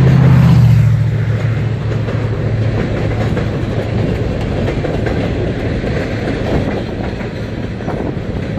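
Freight train cars rolling past close by: a steady rumble of steel wheels on rail with clickety-clack over the joints. A low drone is loudest in the first second and fades over the next two.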